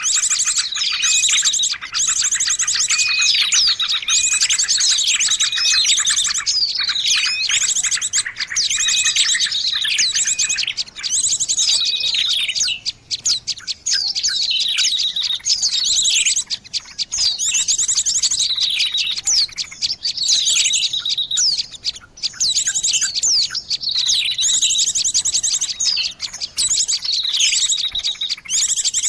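Many small birds chirping and twittering at once: fast high trills overlaid with short notes that fall in pitch, repeating about once a second, with no pauses. This is a bird-lure recording of small songbirds calling.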